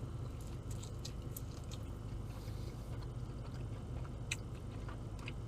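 A man chewing a mouthful of BBQ chicken pizza, with scattered small wet clicks from the mouth, over a steady low hum.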